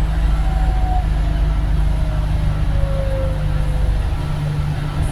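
Scania Omnidekka double-decker bus running, its steady low drone joined by a whine that slides down in pitch over a few seconds, with the rumble easing near the end.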